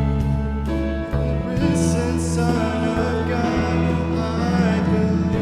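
Live church praise band playing a worship song: sustained chords over bass notes that change about once a second, with singing voices coming in about two seconds in.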